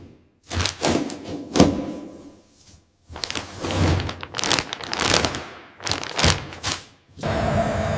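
A run of heavy thunks and knocks, a dozen or so hard hits, some with a short ring after them, like parts being handled and set down during a helicopter teardown. About seven seconds in, a steady machine hum starts.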